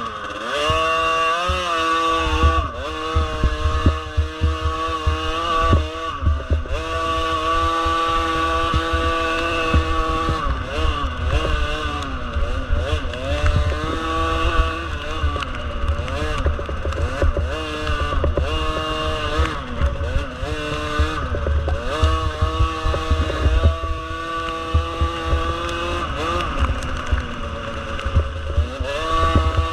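Small 50 cc motorcycle engine running at changing revs, held steady for a few seconds at a time, then dropping and climbing again, over and over.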